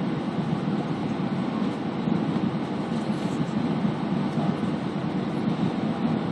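Steady cabin noise inside an Airbus A320 airliner: a constant, even rumble of engines and airflow.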